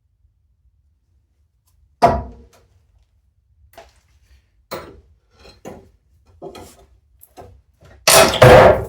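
Metal knocks and clanks from a car's front subframe being worked free of the body. There is a loud sharp bang about two seconds in, several lighter knocks after it, and a loud clatter lasting under a second near the end.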